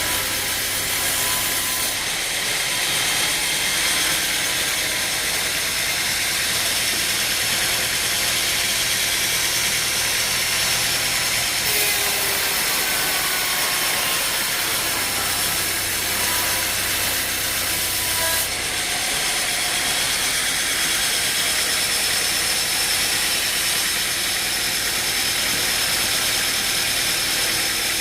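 Heavy wood-processing machinery running with a loud, continuous mechanical noise and a steady high whine. The sound shifts abruptly a couple of seconds in, again at about twelve seconds, and again at about eighteen seconds.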